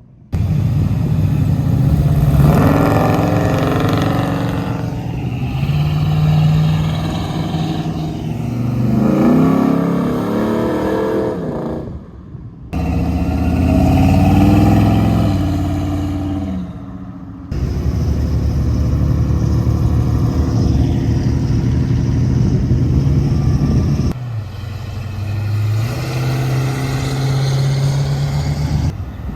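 Muscle-car engines revving hard, their pitch climbing and falling. The sound cuts abruptly from one car to another three times.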